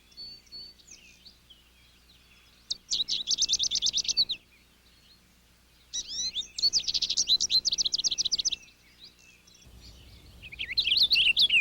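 Songbirds singing: two rapid, even, high trills, each about a second and a half long, then a quicker run of varied warbling chirps near the end.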